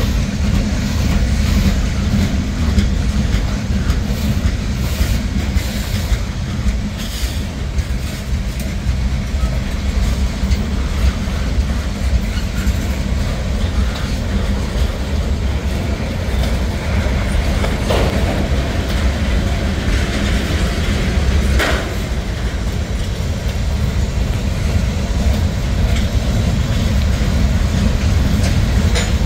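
Freight cars of a long mixed freight train rolling steadily past, their steel wheels rumbling and clattering on the rails. There are two brief, higher-pitched screeches past the middle.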